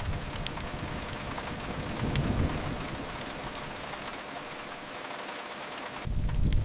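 Steady rain hiss with a few sharp fireplace crackles. Near the end a low rumble comes back abruptly, with denser crackling.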